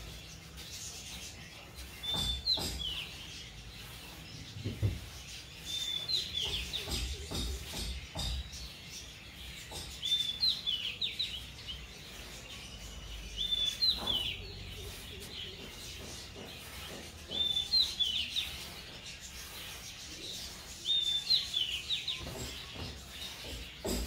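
A bird repeating the same short chirping phrase about every four seconds, each a brief note followed by a quick run of falling chirps.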